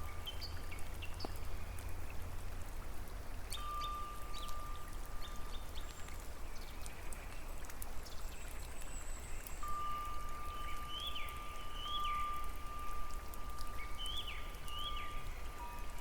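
Nature soundscape: birds chirping in short, quickly falling calls, several in the second half, over a steady rush of water. A steady high note sounds for a few seconds at a time.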